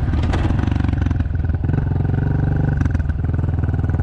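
Dirt bike engine running while being ridden, holding a steady pitch with a brief dip in revs about a second and a half in, and a few short clattering knocks from the bike.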